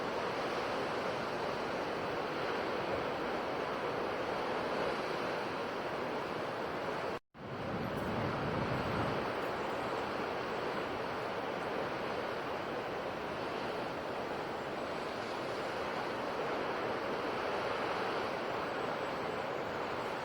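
Sea surf washing steadily onto a coast, a continuous rushing of waves. The sound cuts out completely for an instant about seven seconds in, then resumes.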